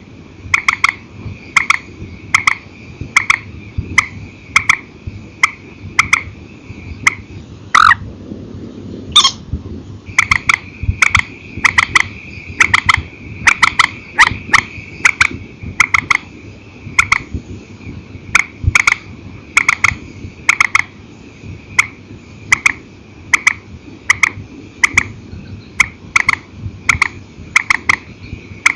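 Purple swamphen calling: a long run of short, sharp notes repeated about twice a second, broken by two longer sweeping calls about eight and nine seconds in.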